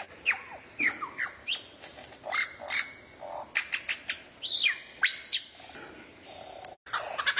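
Recorded songbird calls: sharp whistled notes with quick arched and falling pitch glides, mixed with short clicks, spaced by brief gaps. Near the end the sound drops out for an instant and a faster, rapidly repeated song begins.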